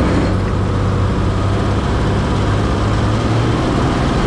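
Engine of a 1941 Chevrolet cab-over truck running steadily while the truck is driven along the road, with road and wind noise.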